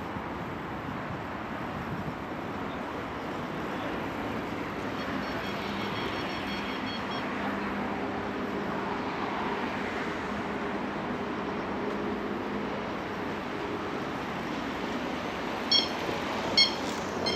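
Steady city vehicle noise that swells in the middle as a vehicle passes, with a low steady hum and faint high whining tones, then two sharp clicks near the end.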